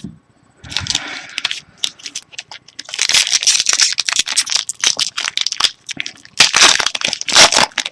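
Foil wrapper of a 2013 Bowman Chrome football card pack crinkling and tearing as it is opened: three spells of crackling, the loudest near the end.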